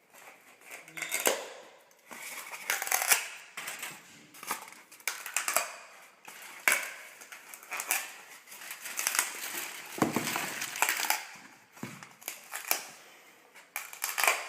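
Scissors stabbing and cutting a hole through aluminum foil over a cup, the foil crinkling and crackling in a long run of irregular bursts.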